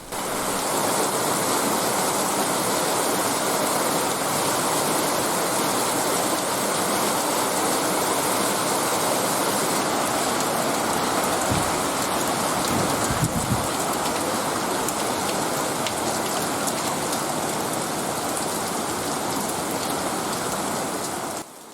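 Heavy monsoon rain pouring down in a steady, dense hiss, with a couple of faint low thumps near the middle.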